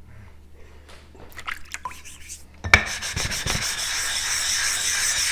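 Whetstone being flattened with a 100-micron diamond resin plate: abrasive rubbing back and forth, stone on plate. It starts suddenly about halfway in with a knock, after a few faint clicks of handling.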